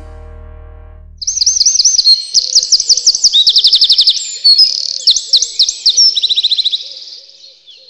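A songbird singing a loud, fast string of repeated chirps and trills, after the tail of a piece of music fades out in the first second.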